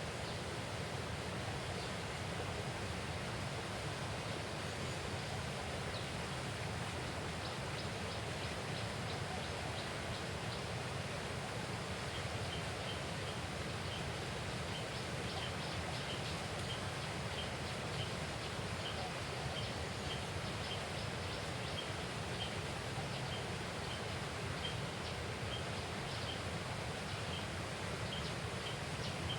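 Steady outdoor noise of wind and moving water. From about the middle on, a small animal calls in short high chirps, about two a second.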